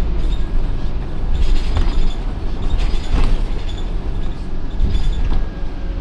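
Scania OmniCity N230UD double-decker bus running along, its engine giving a steady low rumble, with scattered clicks and rattles over it.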